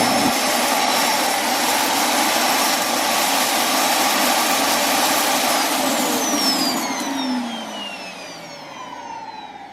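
Roomba s9+ Clean Base auto-empty dock running its suction motor loud and steady while it empties the robot's dirt bin, then spinning down with falling whines about seven seconds in.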